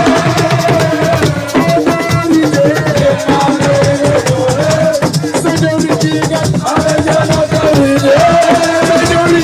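Live assiko band music: shakers and drums keep a dense, steady beat under a held melodic line.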